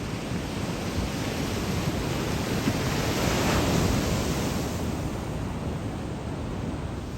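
Ocean surf: the steady rush of waves, with one wave breaking and washing in that swells to a peak about halfway through, then fades.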